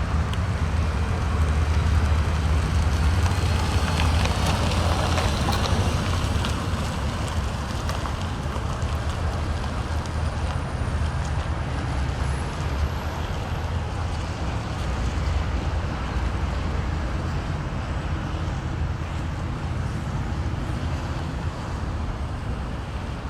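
A vehicle engine running steadily, with its strength low in pitch and no revving.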